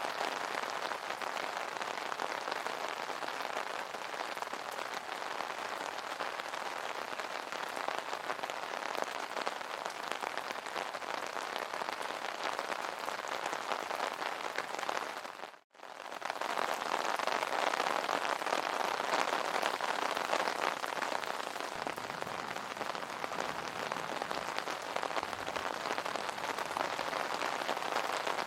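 Steady rain falling on an umbrella, a dense hiss of many fine drops. It cuts out for a moment about halfway through and comes back a little louder.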